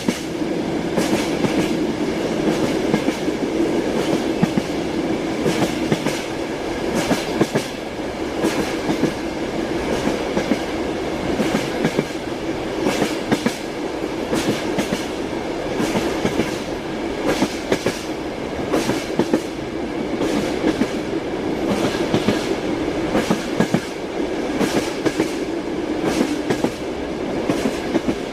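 Train wheels running over rail joints: a steady rolling rumble with repeated sharp clickety-clack knocks throughout.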